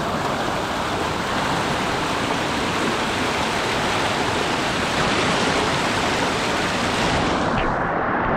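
Steady rush of a rocky waterfall stream, close to the microphone. Near the end the sound turns duller as its hiss fades.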